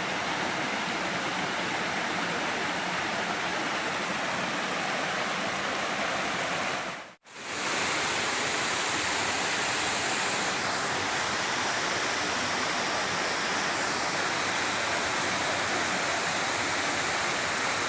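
Waterfall water pouring and splashing in a steady rush, dropping out for a moment about seven seconds in.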